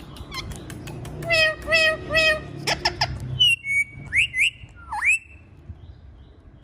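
Ringneck parrot calling and whistling: a few clicks, three short, harsh pitched calls about a second in, then clear whistles. These are a held note, two quick rising whistles and a whistle that dips and swoops back up at about five seconds.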